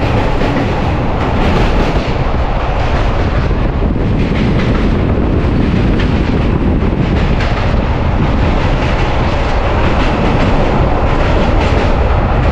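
Passenger train running over a steel truss railway bridge, heard at an open coach door: a loud, steady rumble of wheels on the bridge with rapid rail clatter.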